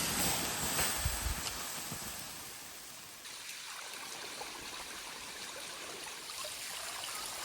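Running water: a steady rushing hiss, loudest at the start with a few low thumps about a second in, then settling to an even level.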